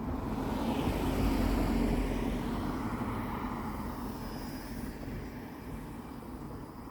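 A vehicle passing by: a rushing noise that swells over the first two seconds, slides lower in pitch and then fades away.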